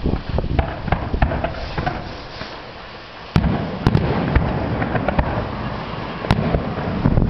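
Fireworks display: a rapid run of bangs and crackling reports over a low rumble. It thins out briefly, then a sudden loud volley starts about halfway through and carries on as a dense barrage.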